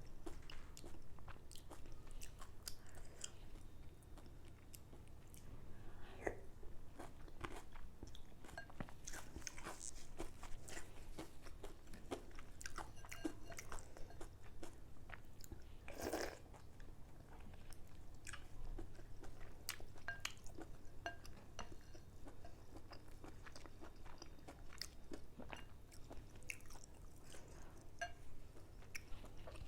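Close-miked eating of mohinga (Burmese fish noodle soup): steady chewing and biting made of many small wet clicks. About halfway through there is one longer, louder noise.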